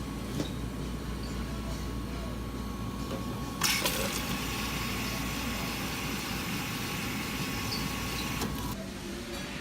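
Car running, heard from inside the cabin: a steady low engine and road rumble. About three and a half seconds in, a loud even hiss joins it, and both fall away near the end.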